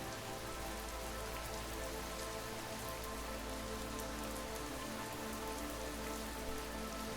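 Steady rain ambience, an even hiss of rain falling on a surface, with faint sustained tones underneath.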